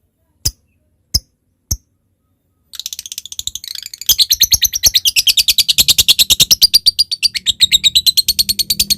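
Lovebird giving a few sharp single ticks about two-thirds of a second apart, then, after a short pause, breaking into its long rapid chattering song (ngekek), a high, evenly pulsed trill that starts about three seconds in and turns loud about a second later.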